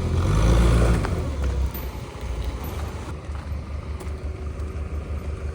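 Engine running with a low rumble, louder for about the first second and a half, then settling to a quieter steady idle.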